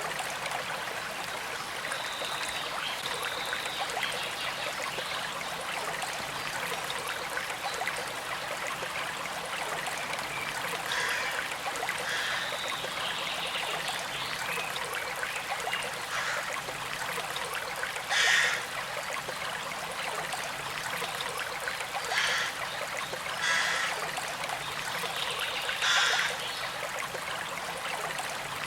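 Small creek trickling and flowing steadily, with about six brief louder splashes scattered through.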